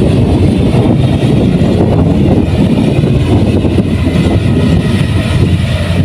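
Kubota rice combine harvester running steadily under load, a loud, constant engine drone with the rattle and rush of the threshing machinery over it.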